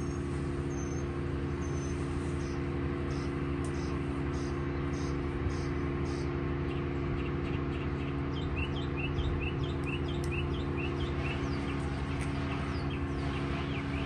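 Birds chirping in a quick repeated series, about two short chirps a second from around eight seconds in, then rising-and-falling calls that sound like a siren near the end, over a steady low engine-like hum.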